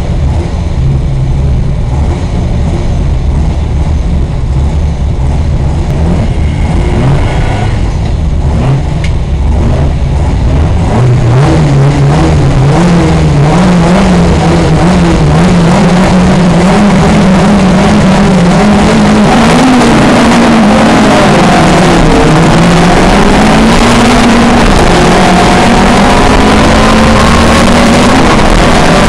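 Pre-1966 touring car engines racing: a loud low rumble at first, then from about ten seconds in an engine revving hard and accelerating, its pitch climbing, dropping back and climbing again as it goes through the gears.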